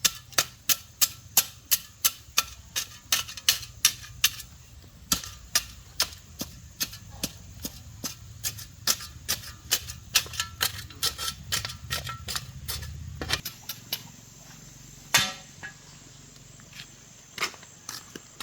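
Rapid, evenly spaced sharp taps, about three a second, over a low hum. The hum and tapping stop about 13 seconds in, and a single louder knock follows about two seconds later.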